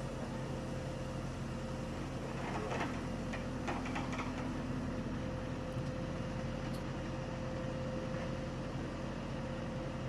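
The engine of a digging machine runs steadily, with a steady whine over it. A few knocks and some clatter come between about two and a half and four seconds in.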